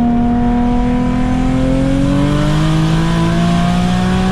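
Turbocharged 2004 Infiniti G35 coupe's V6 pulling under boost, its note climbing steadily in pitch, then falling sharply at the very end. It has an exhaust leak ahead of the turbo, which the owner says makes it sound bad and bleeds off boost.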